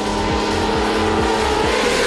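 Sports car engine running at speed, its pitch rising a little and easing off again, over background music with a steady beat.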